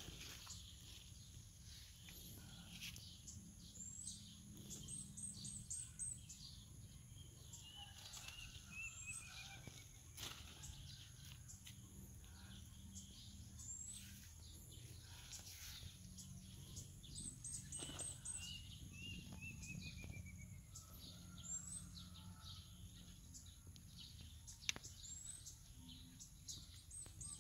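Faint birdsong: a short, high rising chirp repeats every few seconds, sometimes in quick runs, and twice a run of notes falls in pitch. Under it is a low steady hum, with scattered light clicks and one sharp click near the end.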